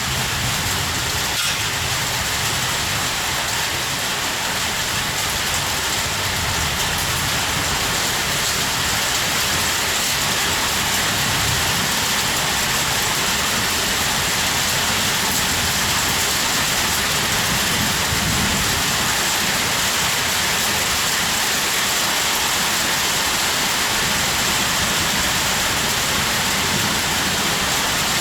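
Heavy rain falling steadily, a dense even hiss of drops on the ground and vegetation.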